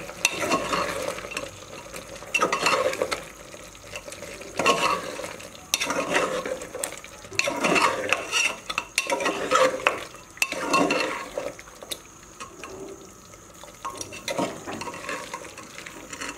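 A metal spoon stirring and scraping mutton and spice masala around a cooking pot, in repeated strokes every second or two with quieter gaps between.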